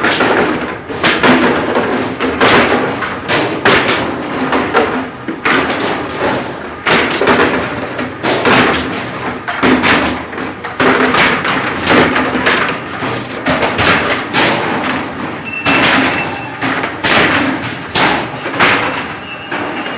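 Dense, irregular thuds and knocks, several a second, over a steady machine hum: deck work on a squid jigging boat as squid are being hauled in.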